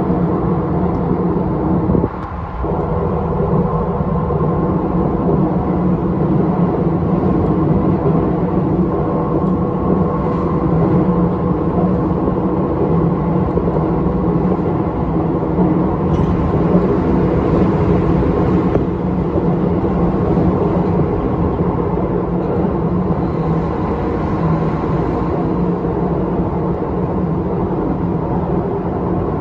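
Electric commuter train running at steady speed: a continuous rumble with a steady hum, dipping briefly about two seconds in.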